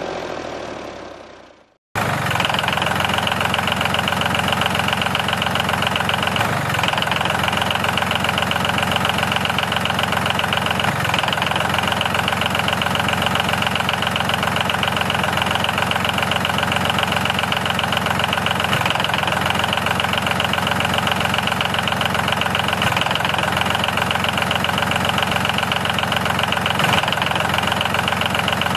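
Music fades out, then about two seconds in a loud, steady, engine-like mechanical running sound starts abruptly and carries on unchanged.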